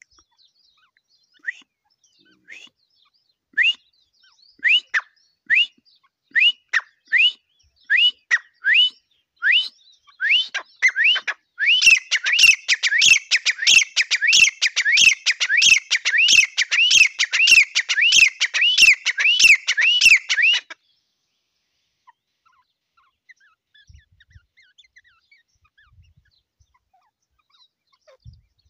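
Francolin (teetar) calling: a series of short, rising whistled notes that come faster and faster, breaking into a rapid, loud run of calls that stops abruptly about two-thirds of the way through.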